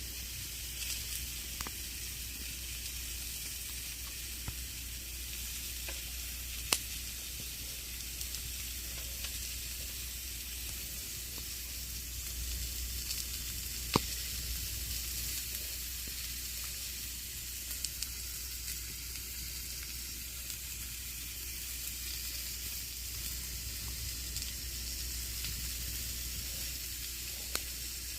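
Campfire burning with a steady crackling hiss, broken by a few sharp pops from the burning wood. The loudest pops come about seven and fourteen seconds in.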